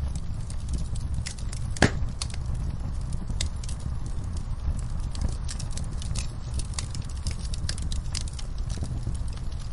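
Wood fire in a fireplace crackling, with many small snaps and one loud pop about two seconds in, over a steady low rumble.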